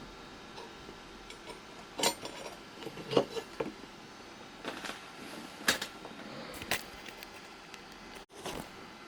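Handling noise while a Bowers & Wilkins 604 S3 loudspeaker is taken apart: a handful of sharp clicks and knocks over a steady low hiss.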